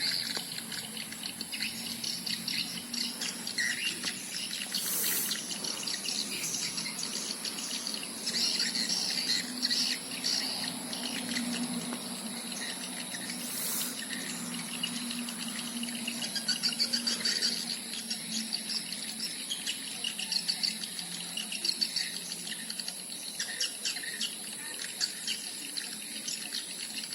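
Swiftlets twittering inside a swiftlet house, a dense, irregular chatter of high chirps, over a steady low hum and a constant faint high whine. This is the birds responding to the house's lure call.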